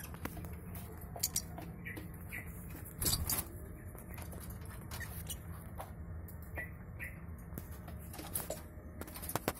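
Lovebirds moving about in a breeding cage: scattered clicks and scratches, a louder rustle about three seconds in, and a few short thin chirps, over a steady low hum.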